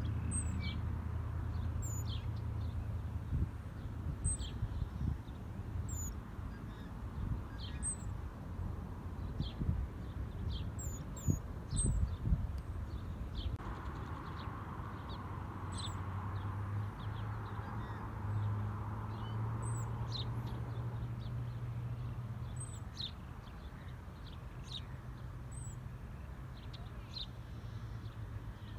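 Small birds chirping repeatedly, short high calls about once a second, over a low steady rumble.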